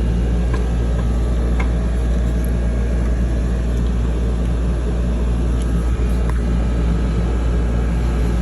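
A steady low mechanical hum, with a few light clicks of small plastic parts being handled about half a second, a second and a half, and six seconds in.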